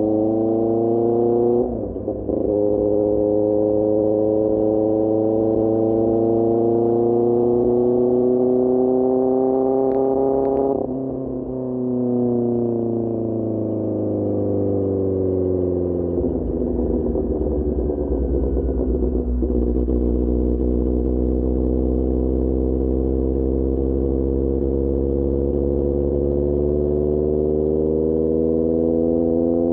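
QJMotor SRK600 motorcycle's inline-four engine running through a Pure Austin Racing GP1R exhaust while riding. The pitch climbs with a quick break for a gear change about two seconds in and again about eleven seconds in. It then falls away as the bike slows to a low steady note, and climbs slowly again near the end.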